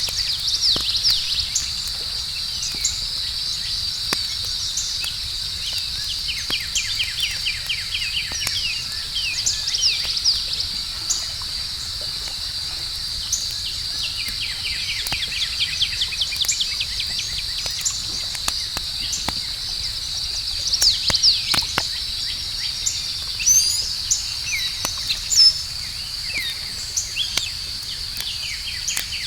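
Campfire crackling with scattered sharp pops, over a steady high-pitched chorus of night insects such as crickets. Chirping calls come and go in quick repeated series, busiest past the middle.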